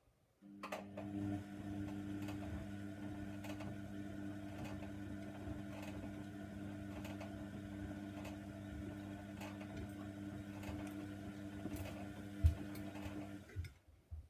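Hoover Nextra washer dryer running for about thirteen seconds: a steady motor hum with scattered knocks and clicks, one of them louder near the end. It starts shortly after a silent pause and stops just before the end.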